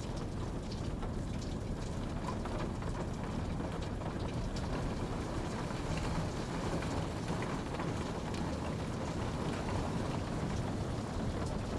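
Steady rainfall, with a dense low rush and scattered individual drops pattering on a surface.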